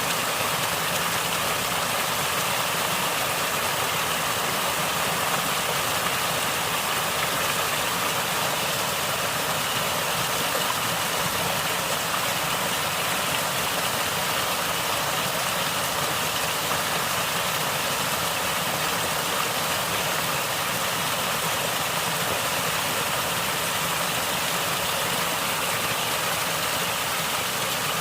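Natural running water gurgling, a steady, even rush without breaks.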